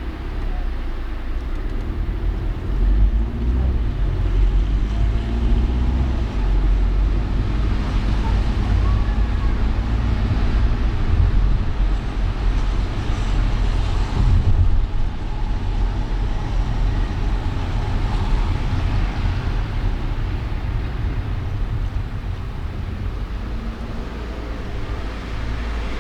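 Steady road and traffic noise of a car driving through city streets: a deep low rumble with an even hiss over it, and faint engine tones of passing vehicles rising and falling.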